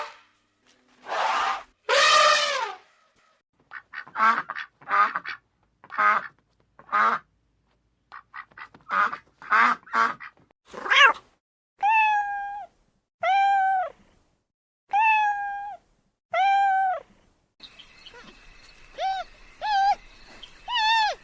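A series of separate animal calls, one after another, with short gaps between them. They start as short calls in quick runs and become longer calls that rise and fall in pitch, each under a second.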